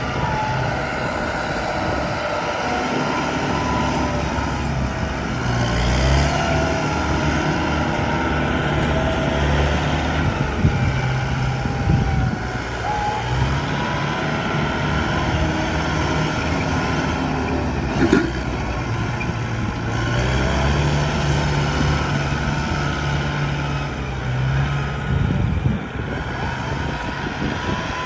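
Heavy diesel earthmoving machinery running, its low engine note rising and falling with load, with a faint whine that bends up and down. A single sharp knock about 18 seconds in.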